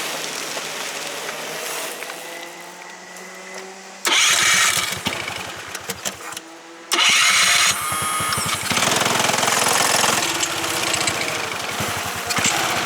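Racing kart's Subaru KX21 single-cylinder four-stroke engine starting suddenly about four seconds in, dipping briefly, then running loud with rapid firing pulses. Fainter engine noise with gliding pitch comes before it.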